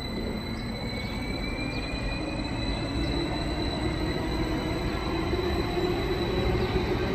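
SBB double-deck commuter train rolling slowly along the platform, its low rumble growing gradually louder. A thin high whine rises slightly in pitch early on, over a steady higher tone.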